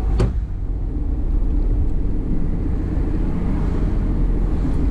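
Steady low rumble of a running motor vehicle, with one sharp click about a quarter of a second in.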